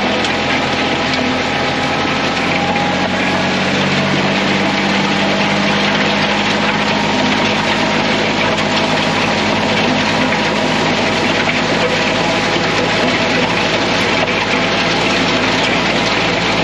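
Kioti CK3510 compact tractor's three-cylinder diesel engine running steadily at working speed, its pitch rising a little in the first few seconds.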